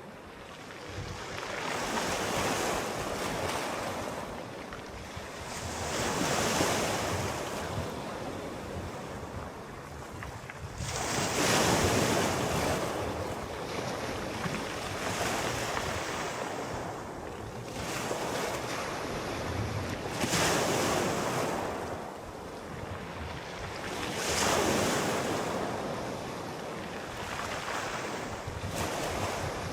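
Sea waves rolling in and washing ashore, a surge that swells and fades every four to eight seconds, the strongest about twelve and twenty seconds in.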